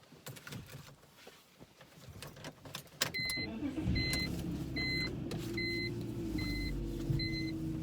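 A car engine starts about three seconds in and settles into a steady idle, after a few light clicks. A short two-tone dashboard warning chime beeps over it about once every 0.8 s.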